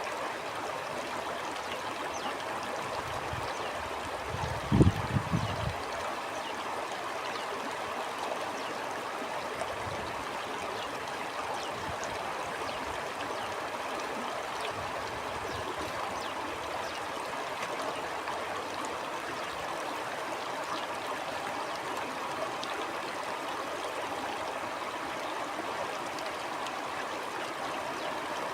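A stream flowing steadily, a continuous rush of water. A brief low rumble comes about five seconds in.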